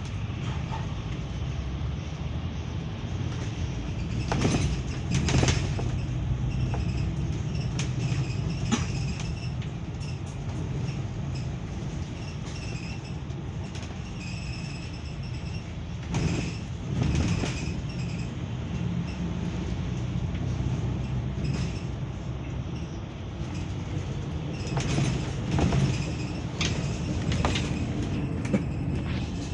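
Cabin noise of a moving bus: a steady low rumble with rattles, a faint high whine, and a few louder clunks about 5, 17 and 26 seconds in.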